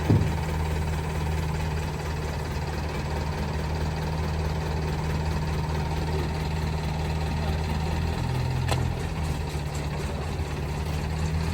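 A car engine idling steadily, with a slight change in its note about eight seconds in.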